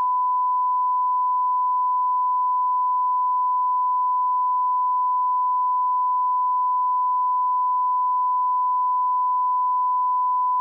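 Steady 1 kHz sine-wave test tone at a −18 dB reference level: a single unbroken pitch that holds constant.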